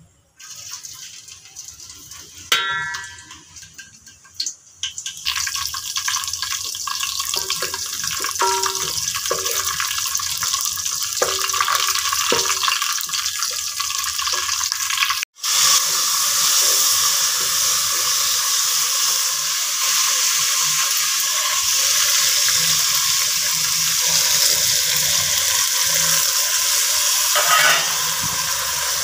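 Sliced onions frying in hot oil in a metal pot: a steady sizzling hiss that builds over the first few seconds, with a spatula stirring and knocking against the pot. The sound cuts out for a moment about halfway.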